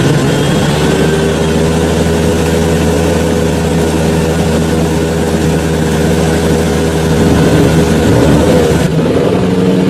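Off-road 4x4's engine running at a steady speed, getting louder for a moment near the end.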